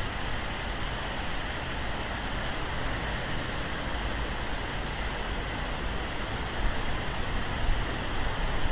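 Steady hiss of rain falling on a city street, mixed with the wash of traffic on wet road; a vehicle grows louder near the end.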